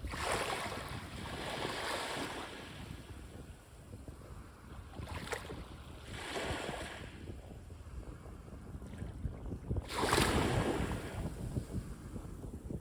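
Sea waves breaking and washing onto a beach, each surge swelling and fading, about every four seconds; the loudest wave comes about ten seconds in.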